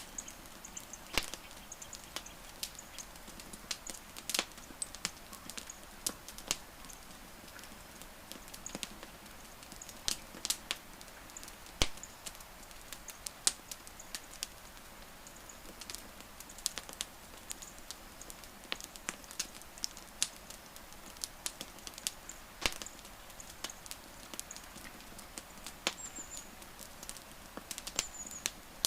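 Wood fire crackling: irregular sharp pops and snaps of varying loudness over a soft steady hiss. Faint, short high-pitched chirps come in now and then, a few of them near the end.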